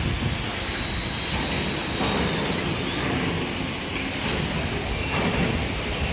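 Fire truck running, a steady rumble with a hiss over it.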